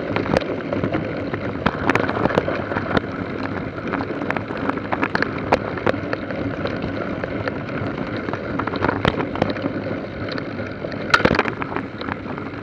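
Mountain bike ridden over rough trail: a steady rumble of riding with frequent sharp rattling clicks, and wind on the microphone.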